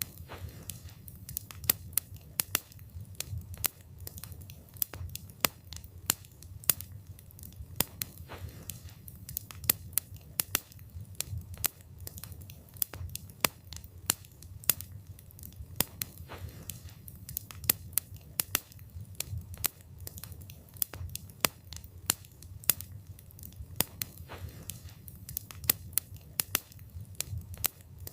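Wood fire burning with a low steady rumble and frequent sharp crackles and pops from the burning wood, several a second at irregular intervals.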